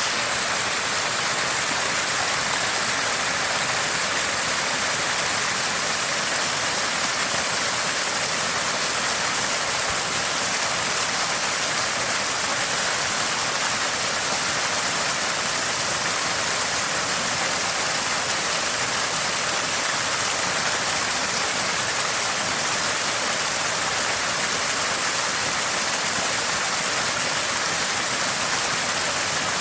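Water spouting and gurgling from a small spring in a steady, unbroken rush, with most of its sound in the high, hissing range.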